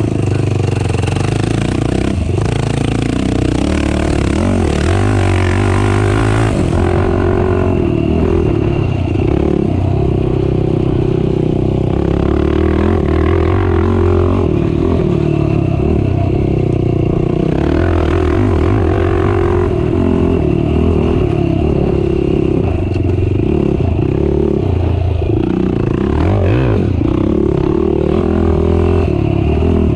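Racing ATV engine running hard through a cross-country race, its pitch rising and falling with the throttle without a pause.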